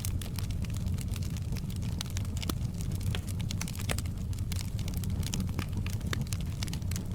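Wood fire crackling: frequent sharp irregular pops and snaps over a steady low rumble.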